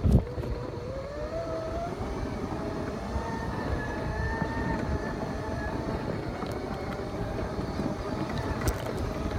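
Segway's electric motors whining, rising in pitch over the first couple of seconds as it picks up speed and then holding steady, over a continuous rumble of its knobby tyres on dirt and gravel. A single thump right at the start.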